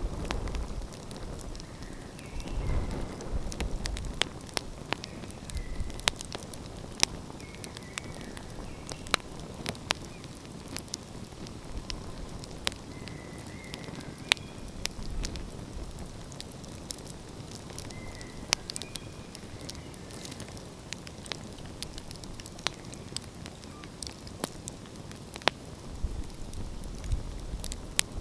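Open wood fire crackling, with frequent sharp, irregular pops over a low, uneven rumble.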